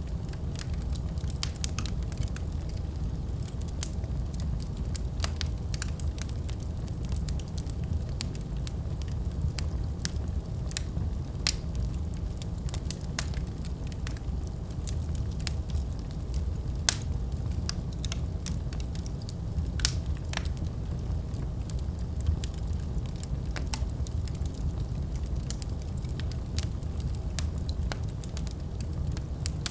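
Wood fire burning in a fireplace: a steady low roar of flames with frequent irregular crackles and pops from the burning logs.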